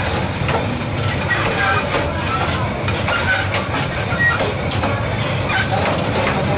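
Passenger train running on its rails, heard from the gap between two coaches: a steady rumble of wheels on track with frequent clattering knocks from the wheels and couplings, and a few short squeals.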